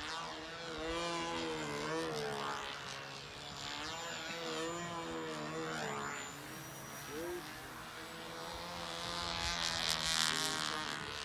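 Model aeroplane's motor and propeller buzzing in flight, its pitch rising and falling as the throttle changes and the plane passes by.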